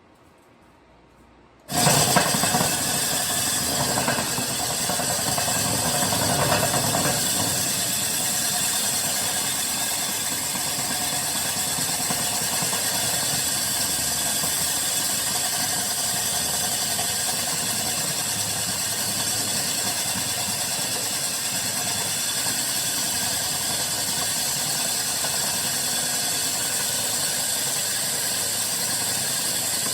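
Drill with a core bit grinding through the house wall to cut a dryer vent hole. It starts suddenly about two seconds in and then runs steadily and loudly.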